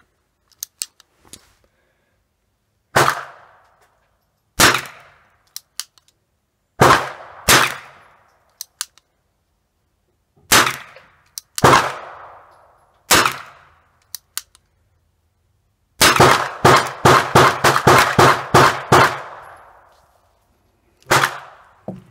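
Gunshots: seven single shots spaced one to three seconds apart, then a fast string of about ten shots in three seconds, and one last shot near the end, each with a short ringing tail. A few light clicks come before the first shot.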